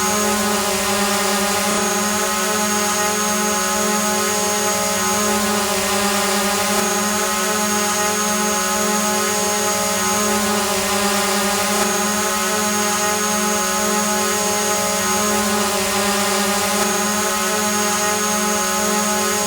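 Quadcopter drone hovering: a steady buzzing hum from its propellers, holding one pitch, with a thin high whine over it that drops out briefly about every five seconds.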